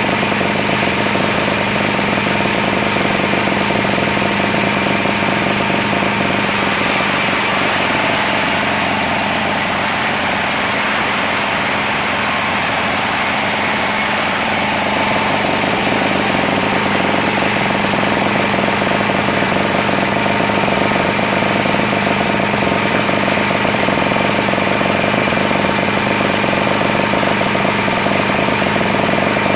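Sawmill machinery running steadily: a loud, continuous mechanical drone with a steady whine over it.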